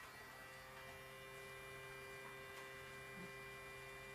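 Faint, steady hum of a small electric motor running at a constant pitch.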